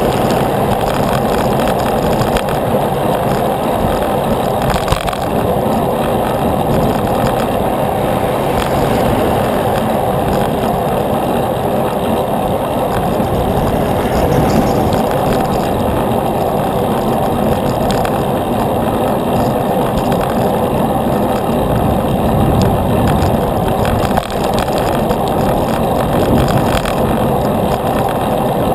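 Steady wind rushing over the microphone of a camera carried on a moving bicycle, mixed with road noise.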